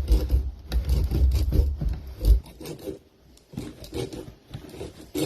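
Handling noises: rubbing and scraping with many small clicks, and heavy low bumps through the first two seconds, then quieter rustling and clicks.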